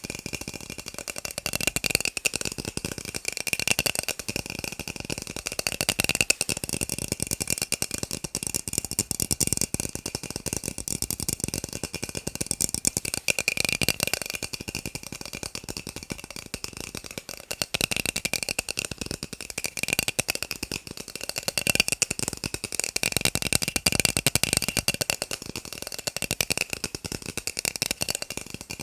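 Fast tapping on plastic cups: a dense, unbroken patter of quick light clicks with a faint ringing tone from the cups.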